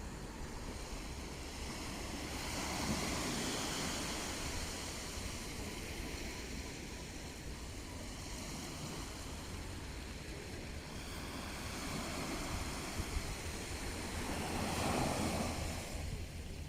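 Mediterranean sea waves breaking and washing on the shore, swelling twice: about three seconds in and again near the end. Wind rumbles on the microphone underneath.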